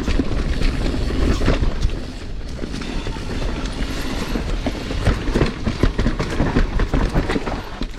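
Mountain bike riding fast over rough singletrack: a steady rumble of tyres on dirt with dense, quick rattling and knocking from the bike over roots and rocks.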